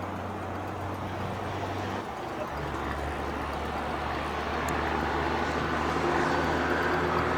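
Steady engine rumble with a low hum, growing a little louder about halfway through.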